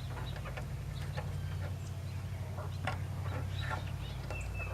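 Backyard chickens clucking in short, scattered calls over a steady low hum.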